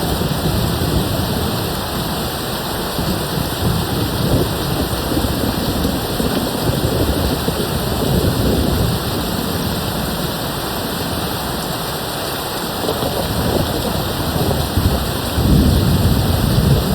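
Steady rain with low rolling thunder, the rumble swelling again near the end.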